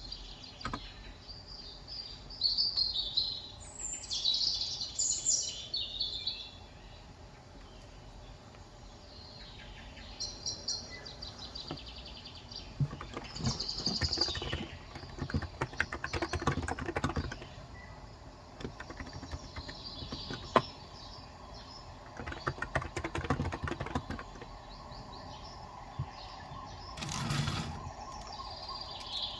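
Small birds chirping in short bursts, with runs of keystrokes on a Cox Endeavor electro-capacitive (35g) keyboard in the middle of the stretch and a short broad rustle near the end.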